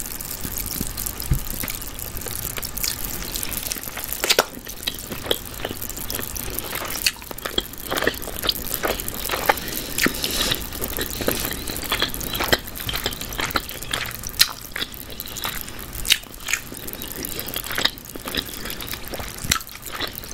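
Close-up eating sounds of a person biting and chewing sauced barbecue chicken drumsticks: irregular sharp smacks and clicks of mouth and sticky meat.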